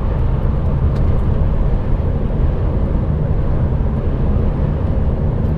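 Steady low rumble of an HGV's engine and tyres on the road, heard from inside the moving truck's cab.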